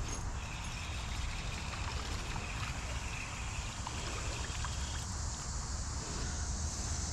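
Steady rush of flowing creek water, with a high, steady insect buzz over it that fades out about five seconds in.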